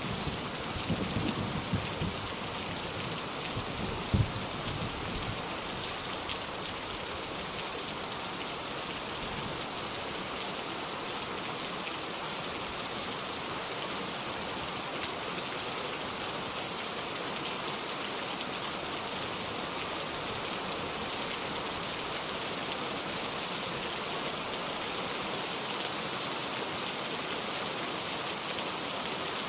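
Steady rain falling, an even hiss of many drops without let-up. There is a low rumble and one brief thump in the first few seconds.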